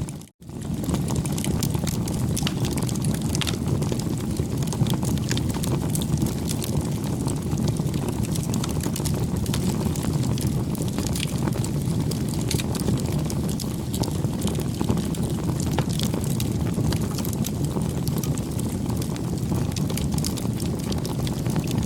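Campfire crackling: frequent small snaps and pops over a steady low rumble of burning. The sound drops out briefly just after the start.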